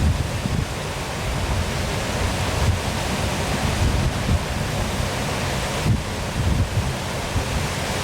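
Waterfall pouring in a steady, even rush, with wind buffeting the microphone in uneven low rumbles.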